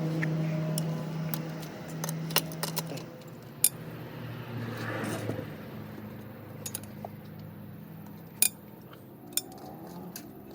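Sharp metallic clinks and taps of tools and engine parts being handled, several scattered through, over a low steady hum that fades out in the first few seconds.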